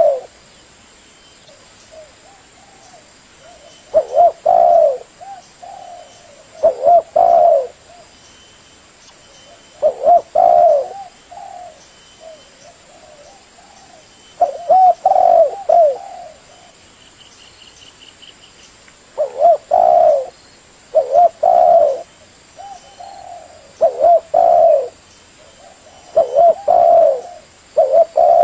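Spotted dove (tekukur) cooing: short phrases of a few low coos repeated every few seconds, with some phrases coming close together.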